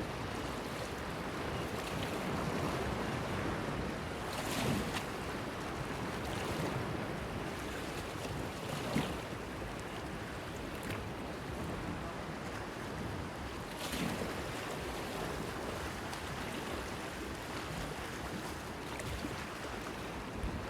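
Small waves washing against a stone breakwater pier, with a steady rush of water and wind and a few brief splashes, the sharpest about halfway through.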